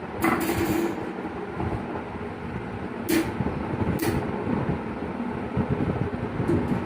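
Sharp plastic clicks and knocks as the parts of a table fan are handled and its grille clips pressed shut: a cluster at the start, then single clicks about three and four seconds in, over a steady low rumble.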